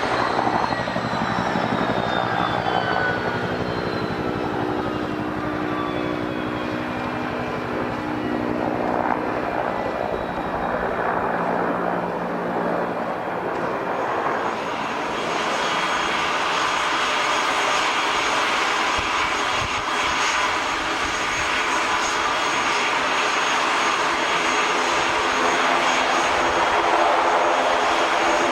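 Airliner engines at an airport. A high whine falls steadily in pitch through the first half as one aircraft moves away, then engine noise with a steady high whine builds again from about halfway through.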